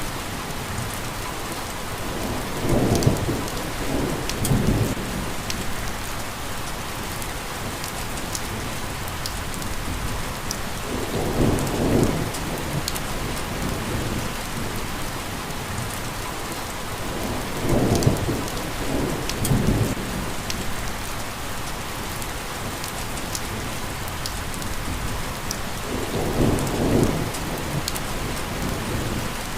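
Steady rain falling on a surface, with sharp drops ticking through it. Four low rumbles of distant thunder swell and fade, one every seven or eight seconds.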